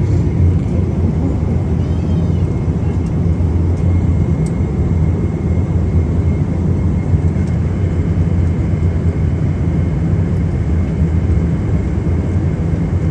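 Jet airliner's engines running, a steady deep noise with a faint steady high whine above it.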